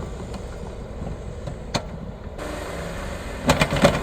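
Jeep engine idling steadily, with a few short clicks and knocks near the end.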